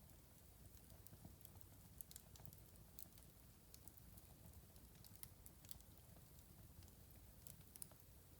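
Wood fire in a fireplace crackling: faint, irregular small pops and snaps over a soft low rumble of flame, with a few louder pops.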